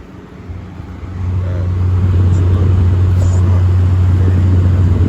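Arctic King 6,000 BTU air conditioner running: a loud, steady low hum that swells about a second in and then holds.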